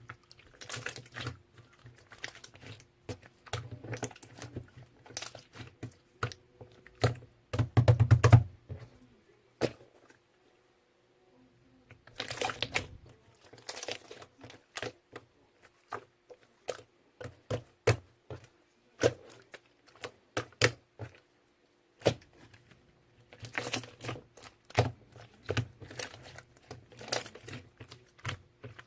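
Slime being pressed, poked and stretched by hand, making runs of quick sticky clicks and pops. There is a louder squelching patch about eight seconds in and two short pauses.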